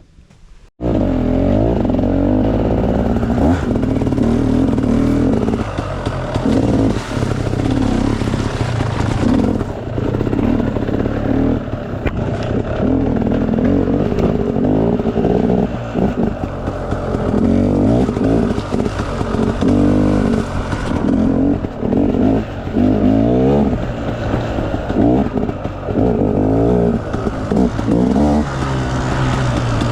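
Enduro dirt bike engine revving up and down over and over, being ridden hard over rough off-road trail ground.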